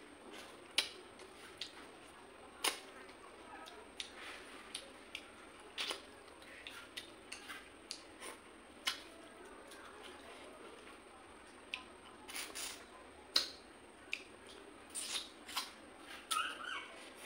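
Close-up mouth sounds of someone eating rice and fish curry by hand: irregular wet smacks, clicks and chewing, a few every second. A brief high chirp sounds near the end.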